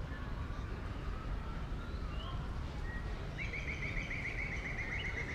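A bird sings a fast trill of short repeated notes starting a little past halfway, over a steady low rumble of outdoor ambience.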